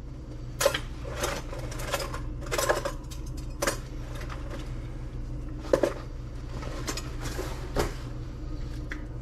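Plumbing tools and parts being handled: about a dozen scattered clinks and knocks over a steady low hum.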